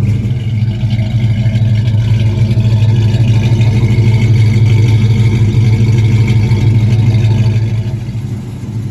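1970 Dodge Charger's warm V8 idling steadily through headers and true dual exhausts, with a deep, even rumble. It gets somewhat quieter near the end.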